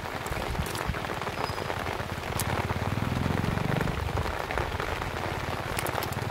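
Steady patter of rain falling on wet ground, with a few sharp clicks and a low rumble about halfway through as a wet cast net is handled.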